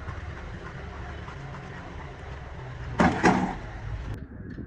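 Steady low engine rumble, with two loud bangs in quick succession about three seconds in.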